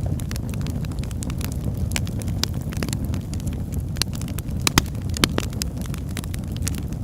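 Wood fire crackling in a fireplace: a steady low rumble of flames with a dense scatter of sharp crackles and a few louder pops about five seconds in.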